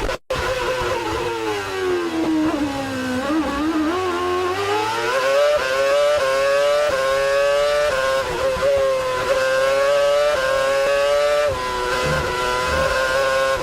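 Formula 1 V8 engine at racing revs: its pitch falls through downshifts to a low point about three seconds in, then climbs through a run of upshifts, the note dipping briefly at each gear change.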